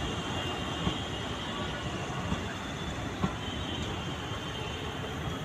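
Electric-hauled passenger train running on the rails: a steady noise of wheels on track, with a few short clanks.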